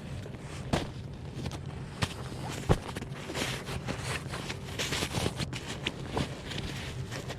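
Rustling and scraping of camping gear being handled, with scattered knocks; the sharpest knocks come about a second in and near three seconds in.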